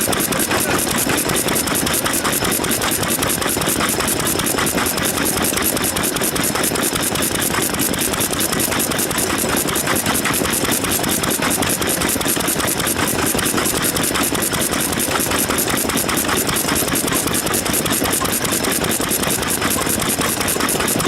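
Vintage stationary engine running steadily, with a fast, even beat that does not change.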